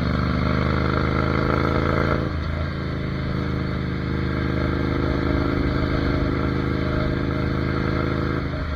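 Ducati Monster 797's air-cooled L-twin engine running while the bike is ridden. Its pitch sags slightly, then breaks and dips briefly about two seconds in, as at a gear change or a throttle roll-off, before it pulls steadily again.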